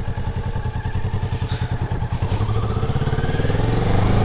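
Kawasaki Ninja 400's parallel-twin engine running on the move at low revs with an even pulsing beat, then rising in pitch and getting louder as the bike accelerates from about halfway through.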